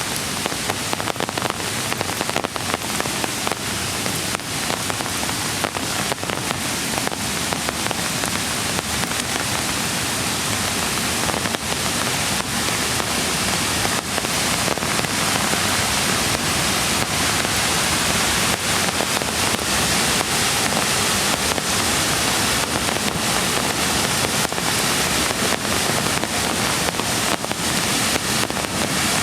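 Steady rain with many close raindrop hits, over the rush of a mountain creek.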